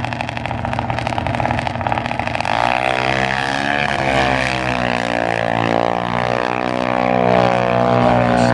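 A drag-racing engine running hard. From about two and a half seconds in a clear engine note comes through, its pitch sweeping up and down as it passes.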